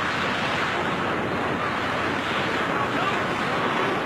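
Steady rush of wind over a skydiver's microphone in freefall, an even, unbroken roar of air.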